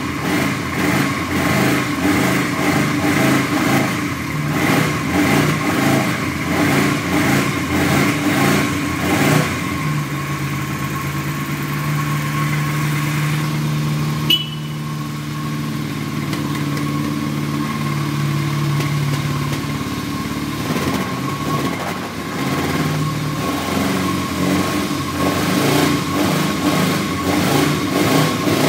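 Yamaha XJ600N's air-cooled inline-four engine running on its first start after winter storage. It pulses unevenly for about the first ten seconds, then holds a steady, higher speed for about ten seconds, broken once by a sharp click, and turns uneven again near the end.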